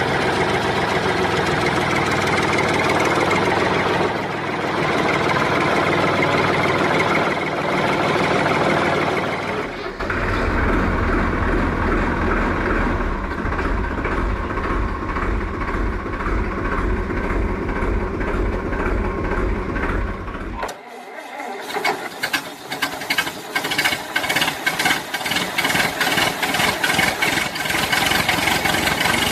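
Engine-like running noise from toy construction vehicles. A deep rumble joins in from about ten seconds and cuts off suddenly about twenty-one seconds in, followed by a fast, even rattling tick.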